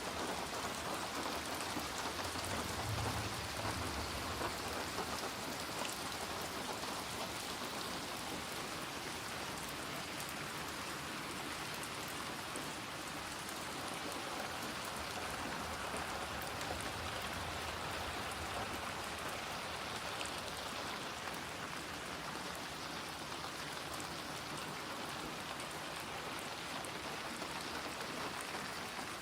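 Steady rain falling and pattering on surfaces, with a low rumble of distant thunder about three seconds in.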